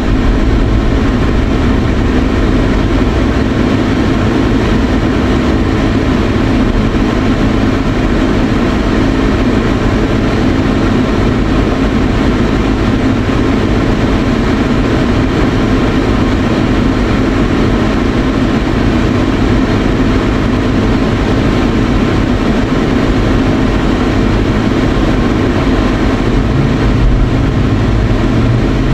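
Steady engine and road hum inside a truck's cabin, an even low drone with no change in loudness.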